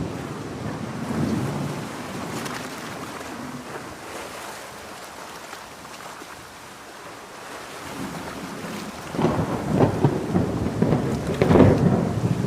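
Heavy rain falling steadily with thunder rumbling. A louder, crackling roll of thunder builds about nine seconds in and runs on near the end.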